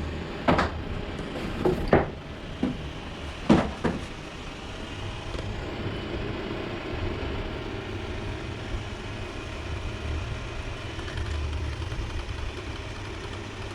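Xiaomi Mijia robot vacuum running with a steady motor hum, and a few sharp knocks in the first four seconds.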